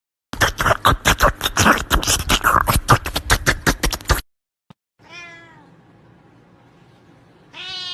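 A cat meowing: one falling meow about five seconds in and another near the end. Before that, about four seconds of loud, rapid clattering or scuffling noise.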